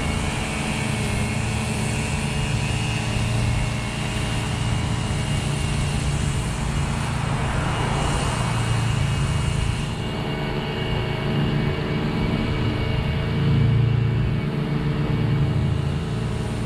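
Husqvarna V554 stand-on zero-turn mower running steadily, its engine giving a constant hum that swells briefly about three-quarters of the way through.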